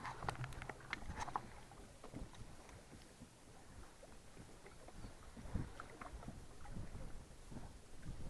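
Low, steady rumble of wind and small waves against a fishing boat, with a few light knocks and clicks from inside the boat in the first second or so and again around six seconds in.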